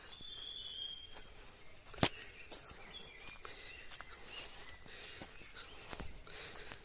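Birds calling with short, high whistles and chirps over a quiet outdoor background, with a single sharp knock about two seconds in.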